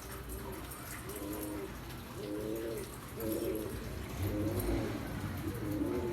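Domestic pigeons cooing: a run of about six low, warbling coos, roughly one a second.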